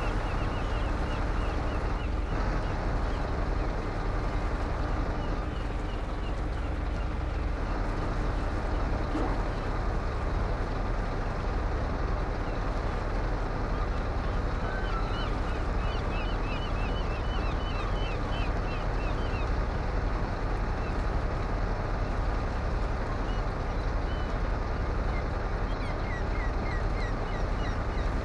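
Truck running steadily, a constant rumble with no change in pace, with runs of short high chirps over it.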